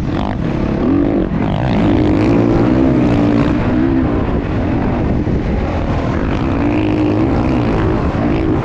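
Motocross dirt bike engine running loud, its pitch rising and falling again and again as the throttle is worked.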